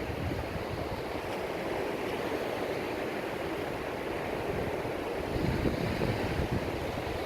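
Steady outdoor rushing noise with wind buffeting the microphone, the low gusts growing stronger about five seconds in.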